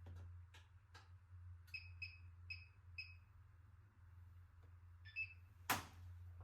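Washing machine control panel beeping four times in quick succession as its buttons are pressed. Light clicks come before the beeps, and one more beep and a sharp click come near the end, over a steady low hum.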